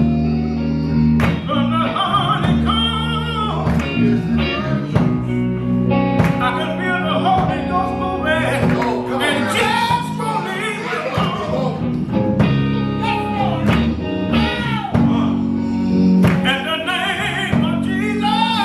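Gospel music with singing over steady bass, keyboard and guitar accompaniment.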